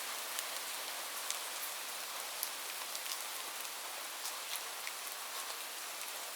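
Steady rain falling on a roof: an even hiss with scattered sharp drop ticks, no thunder.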